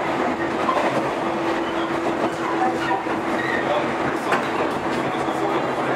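JR 115 series electric train running along the line: a steady rumble of wheels on rail with a steady hum, and now and then a faint click from the rail joints.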